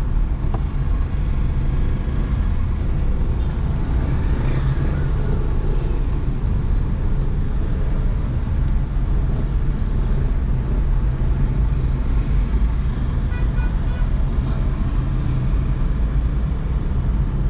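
Steady road traffic noise heard from a car driving along a busy city road: a continuous low rumble, with a passing swell of hiss about four seconds in.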